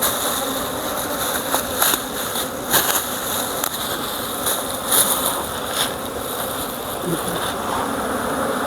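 Honeybees buzzing in a steady hum around an open hive, with a few sharp clicks.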